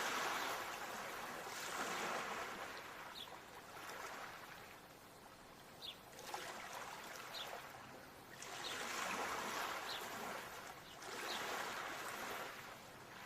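Ocean waves washing in, each surge of surf swelling and falling back every two to three seconds, with a few short faint high chirps over them.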